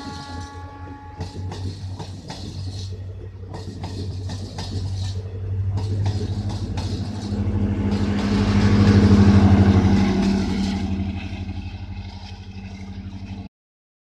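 Diesel-electric multiple unit (DEMU) train passing at speed: a steady low engine drone with wheels clattering over rail joints, growing louder to a peak about nine seconds in, then fading. A horn note stops about a second in, and the sound cuts off abruptly shortly before the end.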